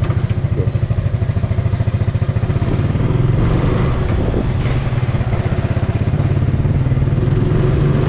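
Suzuki Super Best 125 motorcycle engine running, with a pulsing beat that turns faster and steadier from about three seconds in.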